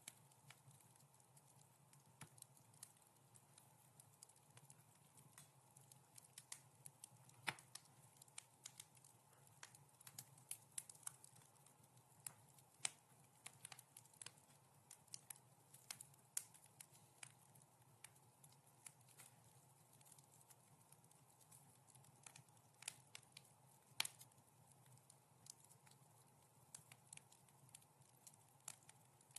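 Wood fire in a fireplace crackling softly, with a steady scatter of small irregular pops and snaps. The sharpest pops come about a third of the way in and again near the end, over a faint low hum.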